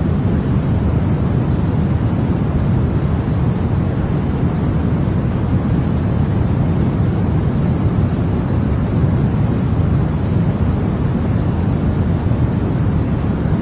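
Continuous white noise for soothing a baby to sleep: a steady, even rushing hiss that is deeper than bright static, heaviest at the low end, with no change in level.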